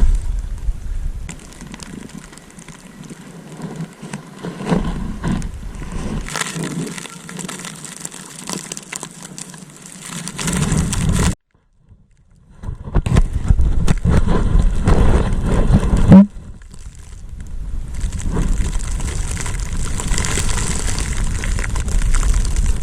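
Snowboard sliding and scraping over snow, mixed with wind buffeting the microphone. The noise swells and fades unevenly, cuts out to silence for a moment about eleven seconds in, and has one sharp loud hit a few seconds later.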